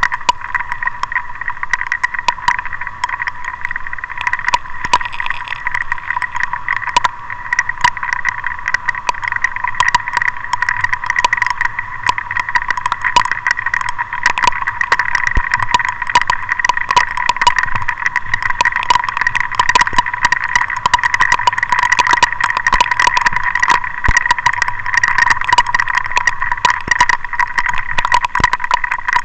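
Rain hitting a moving vehicle's windshield and body: a dense, irregular patter of sharp drop impacts over a steady hiss.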